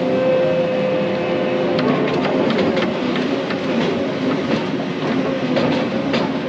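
Excavator engine and hydraulics running steadily under load with a steady whine, while a series of sharp cracks and clanks comes from about two seconds in until near the end as the machine works.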